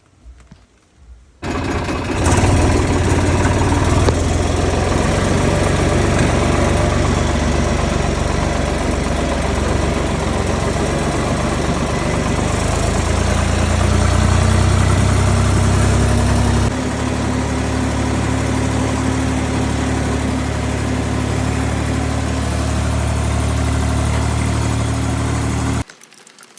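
Tractor engine running steadily, its pitch rising slightly partway through, then cutting off suddenly near the end.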